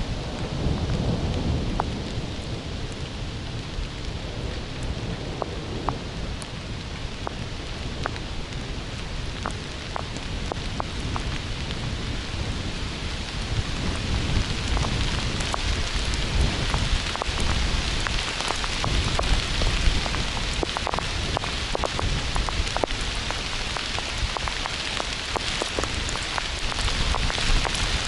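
Thunderstorm: steady heavy rain with drops ticking sharply on a nearby surface and low rumbling thunder, strongest in the first couple of seconds. The rain gets heavier about halfway through.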